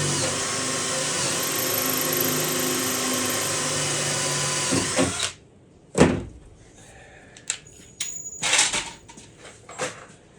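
Electric drill boring through a steel floor plate for a rivet hole, running steadily for about five seconds and then stopping. A sharp snap comes about a second later, followed by a few lighter clicks and knocks.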